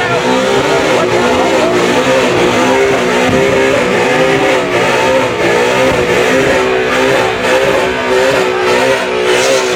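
Car engine held at high revs, its pitch wavering slightly, with a hissing layer above it, as in a burnout with the tyres spinning.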